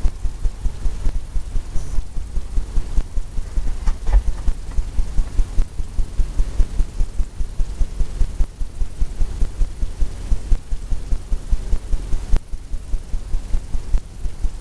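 Paintbrush tapping repeatedly on a stretched canvas to lay in shading: a steady run of dull low thumps, about four or five a second.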